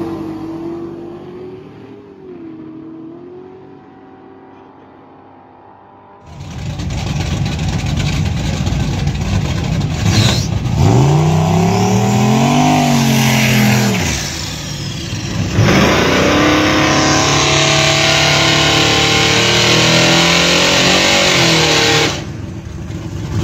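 Drag-race car engines. First a car's engine note fades as it pulls away down the track. Then, about six seconds in, another car's engine revs up and down at the start line and holds loud and steady at high revs for about six seconds.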